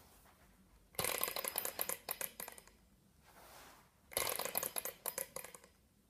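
Model Stirling engine rattling in two bursts of rapid metallic clicking, each starting suddenly and dying away after about a second and a half.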